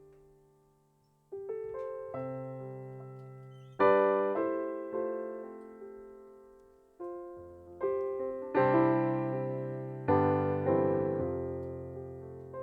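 Slow, soft solo piano music: single notes and chords struck one after another, each left to ring and fade.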